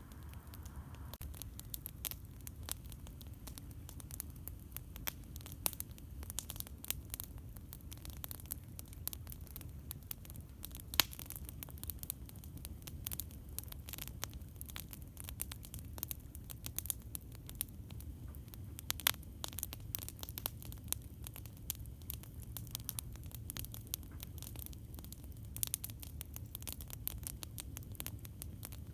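Campfire crackling: a dense, irregular run of small pops and snaps, a few sharper ones standing out, over a steady low rumble.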